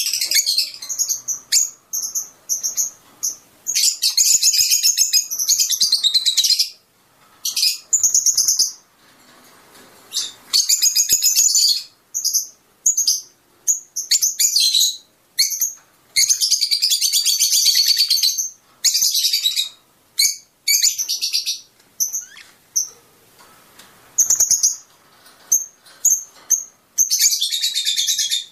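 Fischer's lovebirds chirping: rapid runs of high, shrill chirps lasting one to three seconds each, broken by short pauses.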